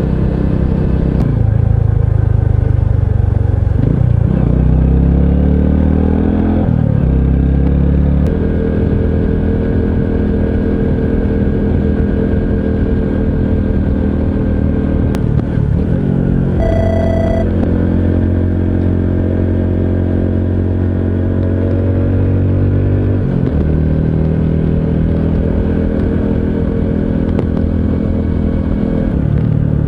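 Honda CT125 Hunter Cub's 125 cc air-cooled single-cylinder engine running under way, its pitch climbing and stepping down through several gear changes in the first eight seconds, then holding steady while cruising, with another drop and recovery about three-quarters of the way through. A short high beep sounds briefly a little past halfway.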